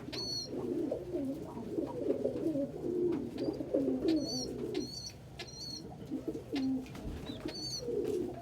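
Several domestic pigeons cooing at once in overlapping low calls, thinning out about halfway through, with short high chirps now and then.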